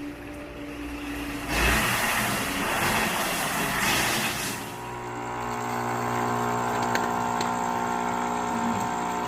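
A rush of noise lasting about three seconds, then, after about five seconds in, a steady mechanical hum with several even tones.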